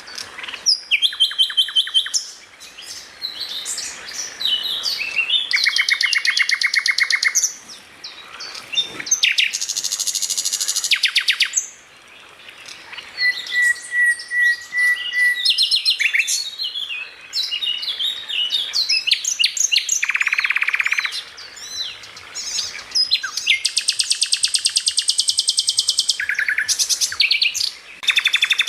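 Greater green leafbird (cucak ijo) singing a loud, varied song of whistles and chips broken by long, very fast rattling trills, the rapid 'tembakan' bursts.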